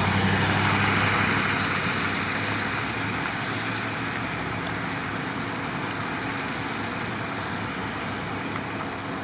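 A motor vehicle's engine and road noise, loudest at the start and fading away over the first few seconds, then a steady outdoor rumble.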